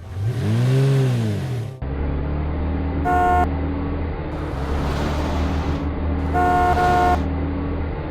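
A cartoon sound effect opens with a tone that rises and then falls in pitch. Then a vehicle engine sound effect runs with a steady low hum, and a truck horn toots twice, the second toot longer.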